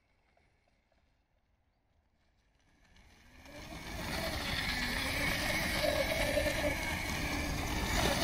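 A 36-volt electric kids' quad bike driving, its motor whining over tyre and ground noise; it comes in about three seconds in, after near quiet, and rises to a steady level.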